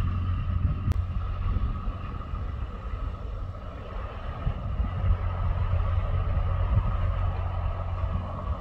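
Airbus A300-600ST Beluga's two turbofan engines on landing approach: a steady low rumble with a constant whine over it. A single click about a second in.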